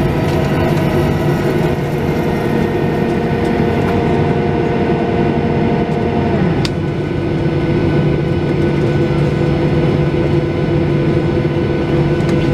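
Boeing 737-800's CFM56-7B jet engines and cabin noise, heard from inside the cabin, running steadily near idle after landing. About six seconds in, a whine drops in pitch, and a sharp click follows.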